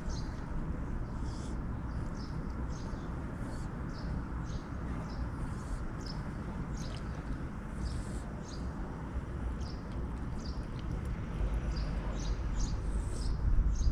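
Small birds chirping: many short, high chirps at irregular intervals over a steady low outdoor rumble.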